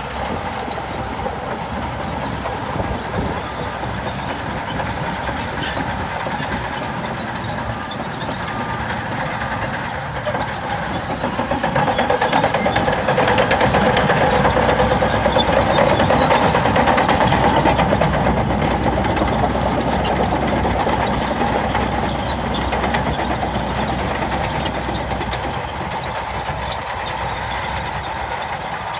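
Diesel engine of heavy earth-moving machinery running steadily, growing louder from about twelve seconds in and easing back after about twenty seconds.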